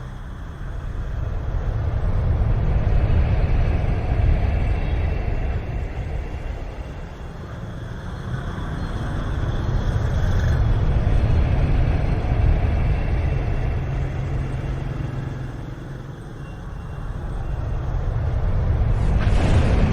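Strong wind blowing in gusts, each gust swelling over a few seconds and easing off, three times, with a deep rumble. A brief sharp crack or clatter near the end.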